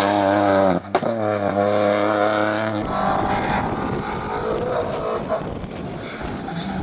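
Rally car engine running hard on a hillclimb stage, its pitch held high with a brief break just before a second in. About three seconds in the sound changes abruptly to a quieter, rougher engine noise.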